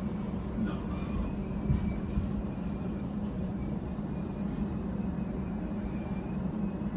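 Elizabeth line Class 345 electric train standing at the platform, giving a steady low electrical hum with a faint thin high tone above it.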